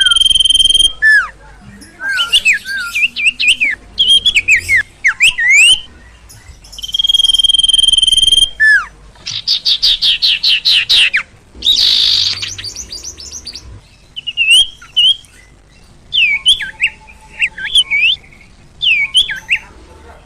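Agitated song of the songbird called sirtu or sirpo in Indonesia: long, steady high whistles held for about a second, broken up by quick slurred chirps, a fast falling trill and a buzzy rattle.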